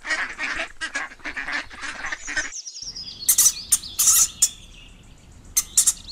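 Ducklings peeping in a rapid run of short calls. About two and a half seconds in, the sound drops out briefly, then thinner, higher falling peeps follow, mixed with a few sharp clicks.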